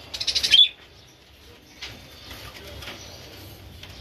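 Budgerigar giving a brief rapid flurry, like fluttering wings, for about half a second, ending in a short high chirp; after that only faint clicks.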